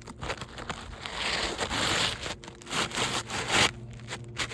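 A new asphalt shingle being slid up under the overlapping shingles of the course above: a gritty scraping and rustling of shingle on shingle, in a long push about a second in and a shorter one near the end.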